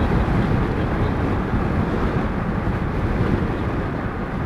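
Strong wind buffeting the microphone: a dense, gusty low rush of noise that eases slightly near the end.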